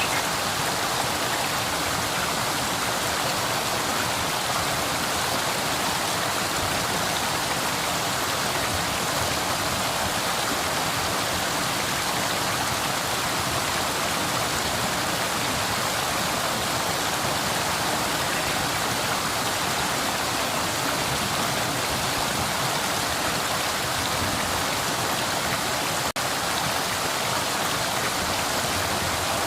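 Flowing river water: a steady rushing hiss, strongest in the upper range, with one momentary dropout near the end.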